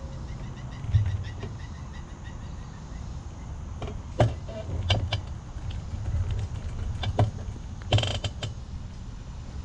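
Riding sounds from a bicycle: a steady low rumble with a few sharp creaks and clicks from the bike, most of them in the second half.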